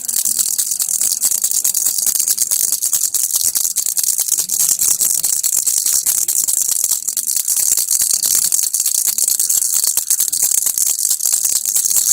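Baby's rattle (kilukki) shaken continuously, a dense, fast stream of small rattling clicks.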